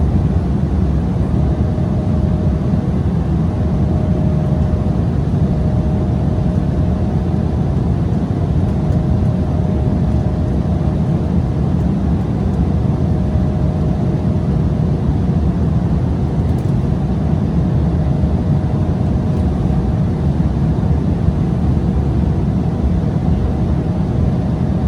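Steady low roar of an Embraer 175's two General Electric CF34 turbofans and rushing air, heard inside the cabin during the climb, with a faint hum that comes and goes above it.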